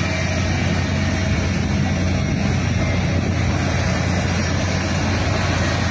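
Steady low rumble and hiss of a running vehicle, unchanging in level throughout.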